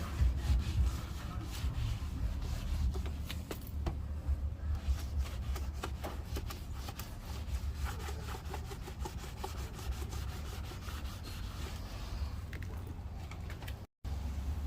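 Non-scratch pad scrubbing bug residue off car paint with a rinseless wash: continuous rubbing full of small scratchy clicks, over a low rumble.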